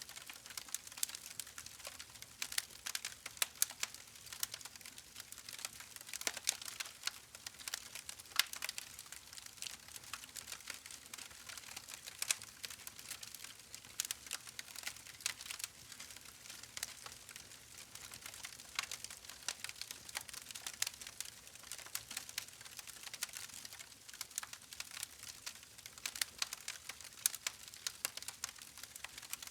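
Campfire burning with a constant irregular crackle of sharp pops and snaps over a soft hiss.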